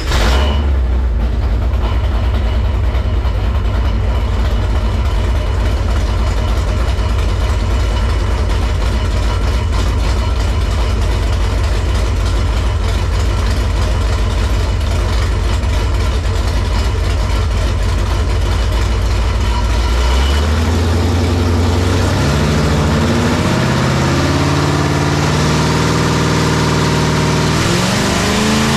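Ford 400 V8 with a hydraulic roller cam, running on an engine dyno through open headers. It holds a steady, heavy drone for about twenty seconds, then its revs climb in steps toward the end as the dyno pull sweeps up through the rev range.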